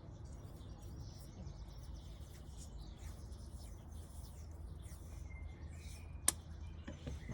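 Faint bird chirps over a steady low rumble, with one sharp click about six seconds in.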